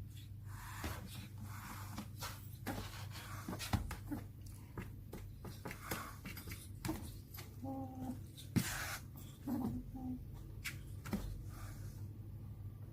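Scattered rustling, scratching and light knocks of a small animal moving about, over a steady low hum. Two brief, faint pitched cries come about eight and ten seconds in, typical of a kitten's soft mews.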